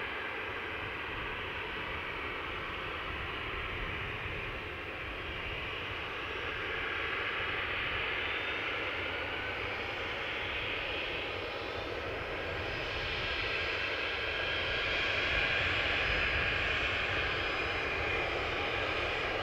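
Aircraft engines running, a steady rush with a faint high whine that grows louder over the second half.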